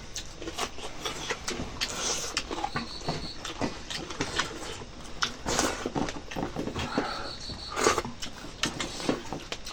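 Close-miked eating: chewing and crunching on local chicken meat and bones, with irregular wet clicks and smacks and a few louder crunches.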